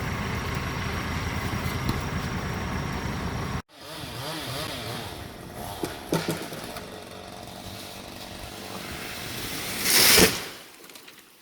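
Chainsaw engine running steadily, cut off abruptly a few seconds in. A quieter stretch of engine sound with a wavering pitch and a few sharp knocks follows, then a loud rushing crash that builds up and peaks near the end.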